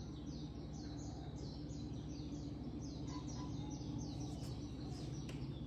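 A bird chirping over and over, a quick run of short, falling high notes about three a second, over a steady low hum.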